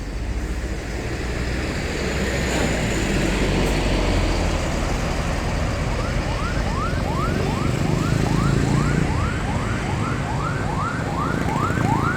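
Bus engine and road noise, then from about halfway a bus horn sounds a repeating rising chirp, starting slowly and quickening to about three chirps a second.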